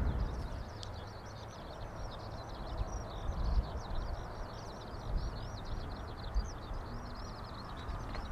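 A small songbird singing a long, unbroken run of rapid, high chirps and trills, over a low rumble of wind or distant engine noise.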